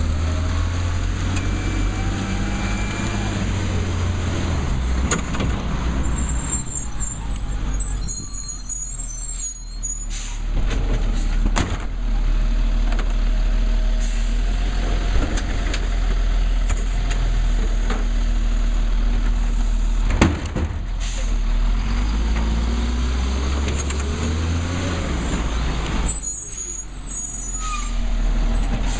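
Labrie Cool Hand garbage truck running, its engine rumbling low, with the pitch rising and falling as it revs. There are a few sharp clicks or knocks, the loudest about twenty seconds in.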